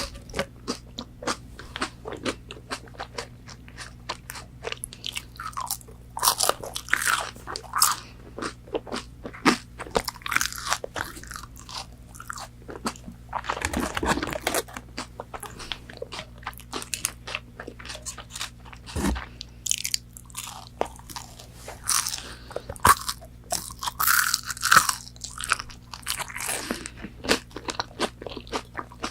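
Close-miked crunching bites and chewing of crispy McDonald's chicken nuggets, with irregular crackles and clicks throughout.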